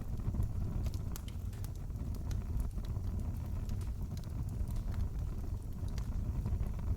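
Wood fire crackling: a steady low rumble of flames with scattered sharp pops and snaps throughout.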